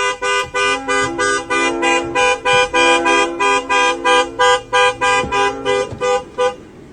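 A tune played in short, clipped horn-like notes, about three a second, stopping shortly before the end.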